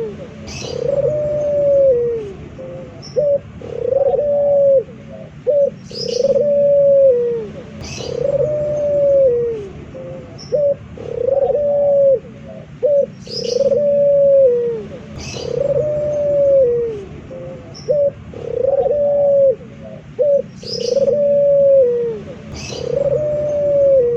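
A male puter (Barbary dove) cooing over and over: a short note, then a long arched coo, repeated about every two seconds. Thin high chirps from a small bird come in now and then.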